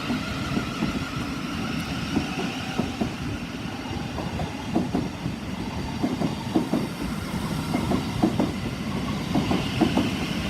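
Class 387 electric multiple unit running empty through the station without stopping, its wheels clattering irregularly over the rail joints.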